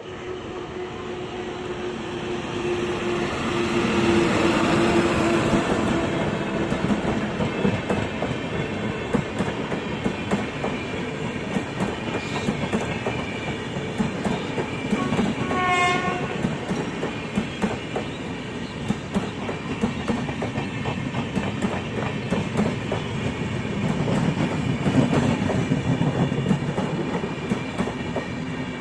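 A train running past on the rails, its wheels clicking rhythmically over the rail joints, loudest a few seconds in and again near the end. A short blast of the train horn sounds about halfway through.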